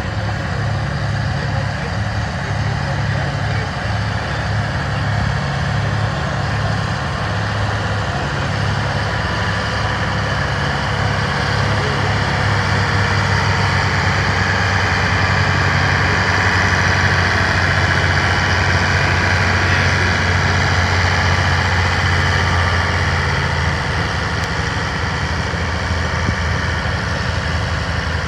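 Oliver 1850 tractor engine running hard under heavy load during a tractor pull. It grows louder about halfway through, then eases off near the end.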